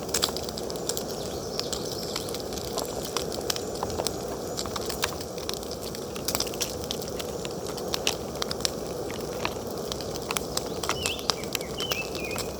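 Food sizzling in a frying pan over an alcohol camp stove: a steady hiss with irregular crackles and pops.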